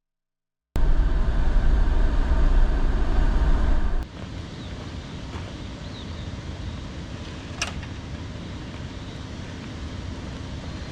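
Car driving: a loud low rumble of engine and road noise that cuts off suddenly about four seconds in, giving way to a much quieter steady background with a single sharp click.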